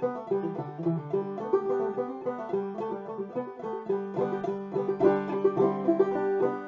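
Clawhammer banjo playing an old-time fiddle tune in G: quick plucked melody notes over the steady ring of the drone string.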